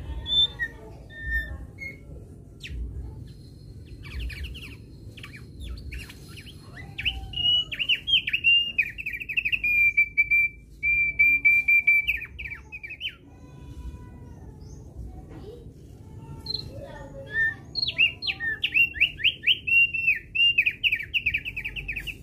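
Thick-billed heleia singing in two long bursts of rapid, loud down-slurred chirps, with a few held whistled notes partway through the first, over a steady low background rumble.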